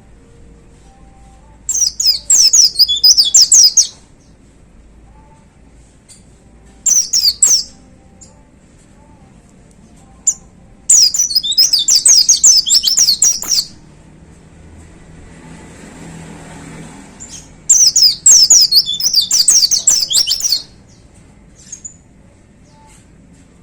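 A white-eye (pleci) singing in four bursts of rapid, high twittering song, each one to three seconds long, with short pauses between. A soft rushing noise rises between the third and fourth bursts.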